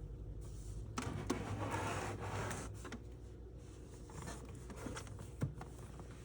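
Lathem 7000E time clock and its time cards being handled: rubbing and scraping, with several clicks and a sharper click about five and a half seconds in.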